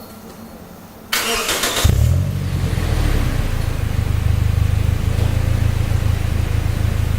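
Toyota Hilux Surf's 2TR 2.7-litre four-cylinder petrol engine cranked by the starter for under a second, catching about two seconds in and settling into a steady, deep idle through a Suruga Speed aftermarket sports muffler.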